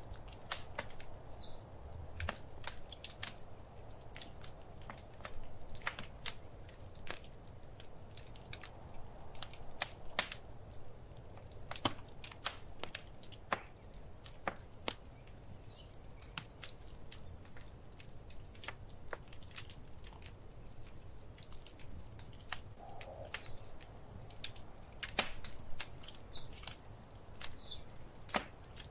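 Wood fire crackling in a fireplace: irregular sharp pops and snaps, sometimes several close together, over a low steady rumble.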